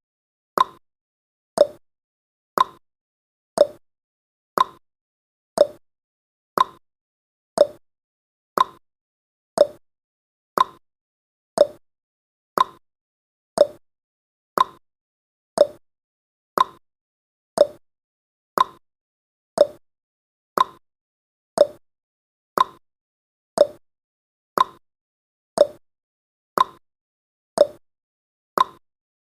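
Countdown timer's ticking sound effect: one short, sharp tick each second, evenly spaced.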